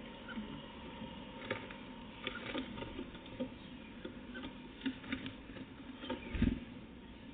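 Irregular light tapping and scratching of small birds pecking and hopping on a bird feeder, with one louder thump about six and a half seconds in.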